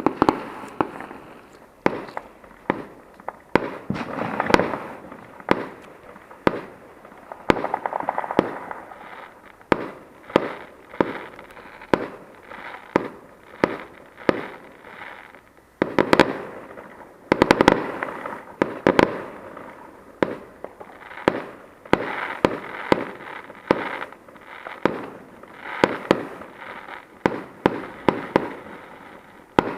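Fireworks going off in quick succession: a continuous barrage of bangs and crackles, several each second, like a long string of firecrackers.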